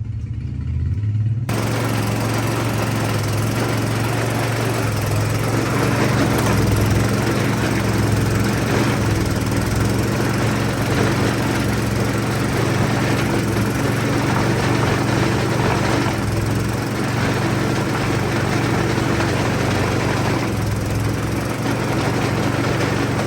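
An engine running steadily with a constant low hum. About a second and a half in, a loud even rushing noise joins it and runs alongside.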